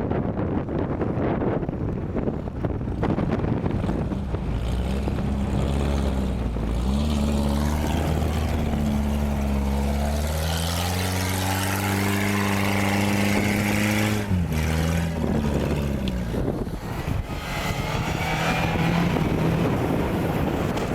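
Off-road vehicle engine revving under load, its pitch climbing steadily from about four seconds in and falling away sharply around fourteen seconds in, with wind buffeting the microphone.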